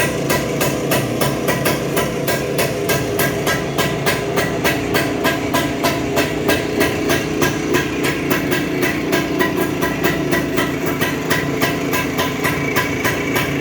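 Rajdoot Bobby motorcycle's single-cylinder two-stroke engine idling, its exhaust giving a steady, even beat of sharp pops, several a second.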